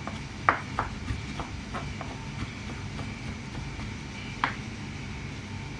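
Knife chopping on a cutting board, slicing stacked spring roll wrappers into thin strips: a quick run of taps in the first two seconds and one more later, over a steady background hum.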